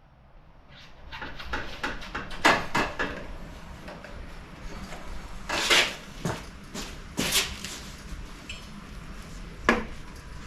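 Metal tools and engine parts clinking and clanking as they are handled, an irregular run of sharp knocks and rattles with a few louder clanks.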